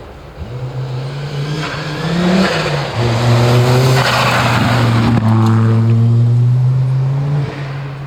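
Rally car engine at full power, building as the car comes close, with a quick rise and drop in pitch at a gear change a couple of seconds in. It stays loud and steady for several seconds, then falls away near the end.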